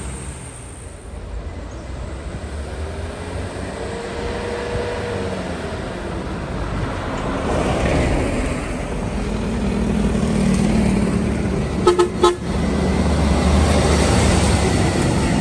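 Heavy diesel truck engine running under load, growing steadily louder as it approaches, with two short horn toots close together near the end.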